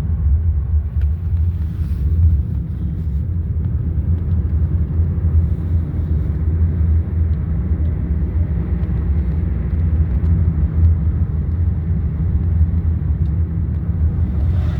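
Steady low rumble of a car on the move: engine and road noise with no change in pace.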